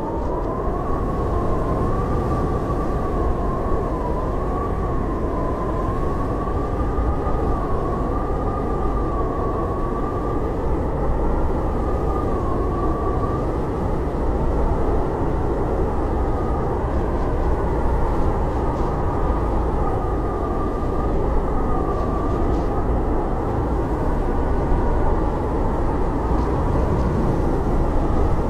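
Howling blizzard wind: a steady low rush with a thin whistle that wavers up and down in pitch.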